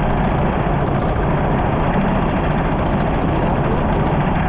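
Heavy monsoon rain falling: a loud, steady rush with a low rumble underneath.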